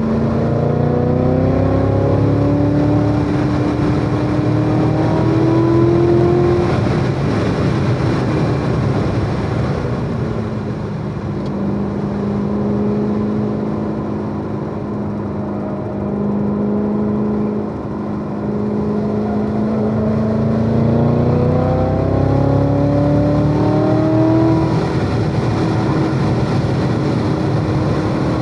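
C7 Corvette Z06's supercharged V8 under load on track, its pitch rising for about six seconds as it pulls through a gear, then dropping back. It holds a steady lower note for several seconds, then climbs again twice, over steady tyre and wind noise.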